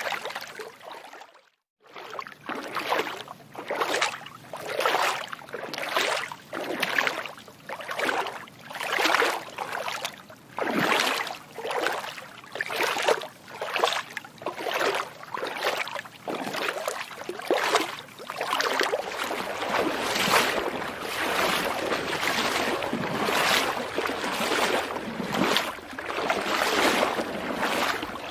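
Footsteps wading through water: a steady rhythm of splashes, a little more than one step a second, broken by a brief silent gap shortly after the start.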